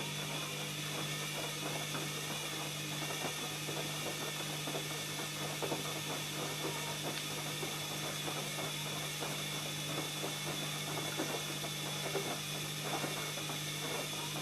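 ELIN A 100 E washing machine's drum motor running with a steady hum, over a dense patter of small irregular knocks and swishes.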